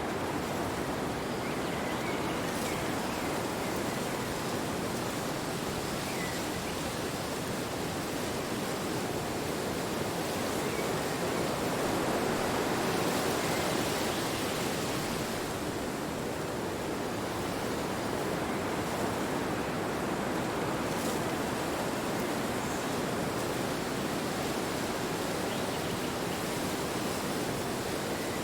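Wind blowing in a steady rush that swells a little about halfway through, then eases back.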